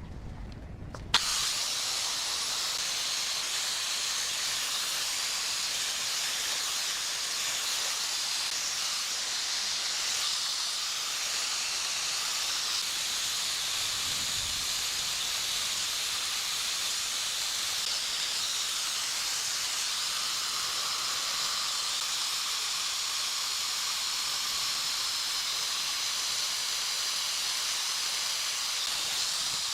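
Steady hiss of compressed air rushing out, starting abruptly with a click about a second in.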